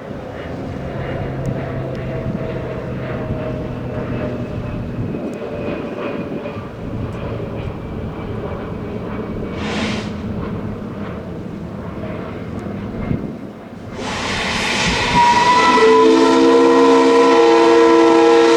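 Steady mechanical rumble with a brief hiss about ten seconds in. Near the end a loud rush of steam builds into a multi-note steam whistle chord, held for about three seconds and cut off sharply, the whistle of the steam yacht SS Delphine.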